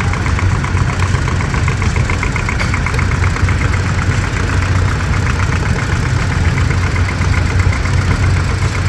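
Antique farm tractor engine running at a low, steady idle, with a fast, even firing beat.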